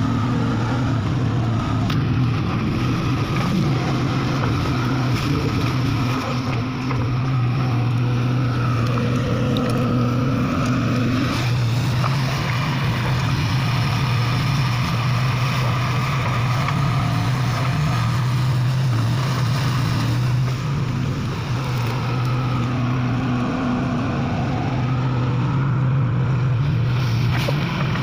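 Komatsu PC200-5 excavator's diesel engine running steadily under work, an even hum that holds its pitch.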